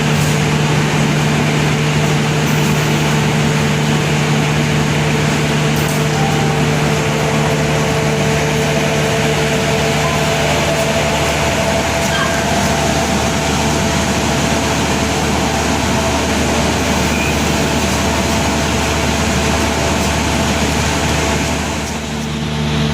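Steady running noise of a moving passenger train heard from aboard, with a constant hum under it and a slight dip near the end.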